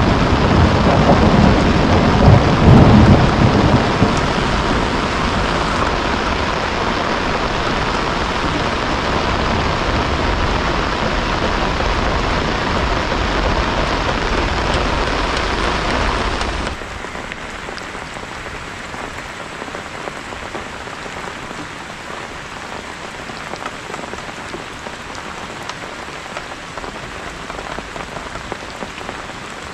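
Heavy rain pouring down, with a rumble of thunder in the first few seconds. About two-thirds of the way through, the sound drops suddenly to quieter, lighter rain with scattered drops pattering.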